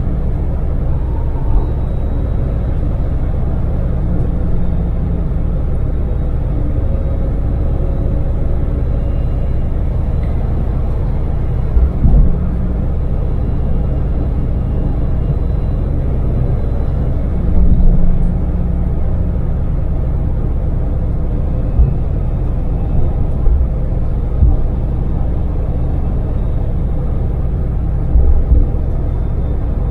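Daewoo Damas mini van's small LPG three-cylinder engine and road noise heard from inside the cab at steady expressway speed, a constant low rumble. Short low thumps come through now and then.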